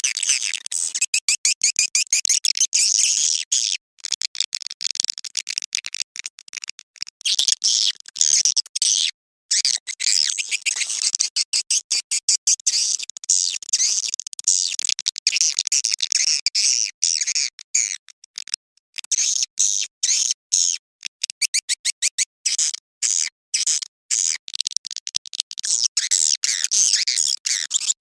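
Swiftlets twittering: a dense stream of rapid, high-pitched chirps and clicks with brief breaks. A swiftlet lure call of the courtship (birahi) kind, played to draw swiftlets to a nesting house.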